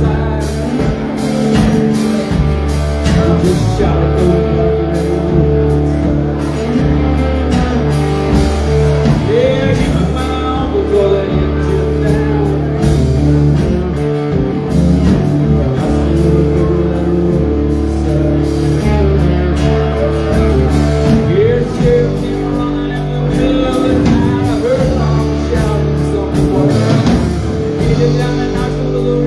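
Live country-rock band playing an instrumental stretch of a song: electric guitar with bending notes over a steady bass line.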